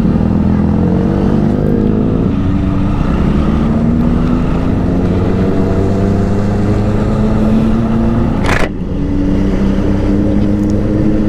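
Benelli motorcycle engine heard from the rider's seat, its note climbing slowly as the bike gathers speed, with a brief break about eight and a half seconds in before it runs on steadier.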